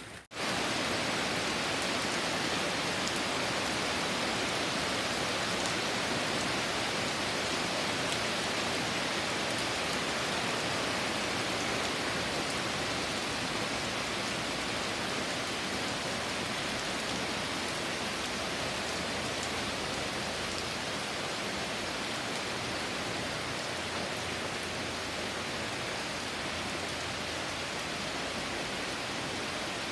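Heavy rain pouring steadily onto trees and foliage: an even, unbroken hiss. It cuts out for a moment right at the start and comes back louder.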